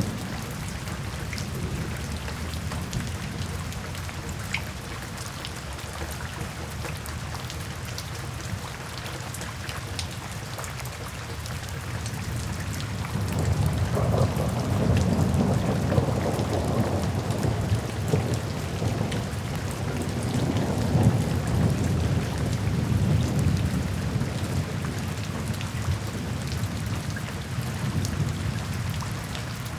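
Steady rain pattering, with a rumble of thunder that swells about halfway through and dies away near the end.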